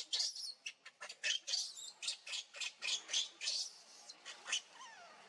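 Monkeys giving a rapid run of short, high-pitched squeaks and squeals, about three calls a second, with a few brief sliding calls near the end.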